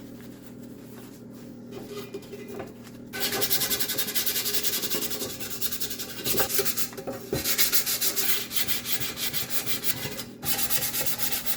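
Sandpaper rubbing rapidly back and forth over the Comet's air cleaner housing as it is sanded for repainting. The sanding starts about three seconds in and stops briefly twice.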